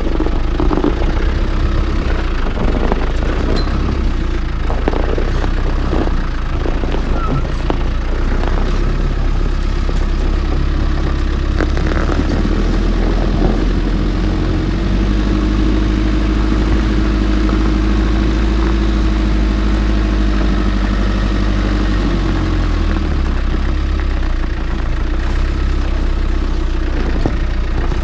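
Land Rover Defender 90's engine running steadily as the vehicle drives, with scattered knocks and clunks in the first several seconds and a drop in engine pitch a little after two-thirds of the way through.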